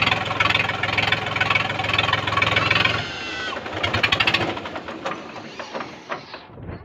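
Tractor engine running steadily. About three seconds in, its pitch drops and it goes on more quietly with irregular knocks, fading toward the end.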